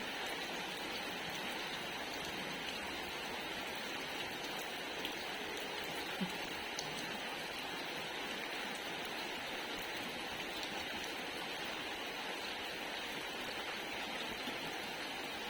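Steady rain falling, an even hiss with scattered drop ticks, and one sharper tap about six seconds in.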